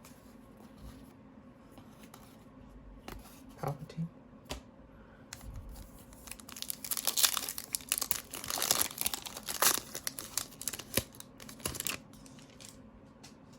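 A trading-card pack wrapper being torn open and crinkled by hand: a few light handling clicks, then a dense spell of crinkling and tearing from about halfway through that lasts several seconds.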